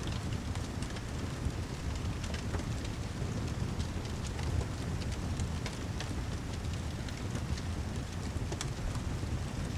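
Mixed ambience of heavy rain and a crackling fireplace: a steady hiss over a low rumble, with frequent sharp little crackles and ticks scattered through it.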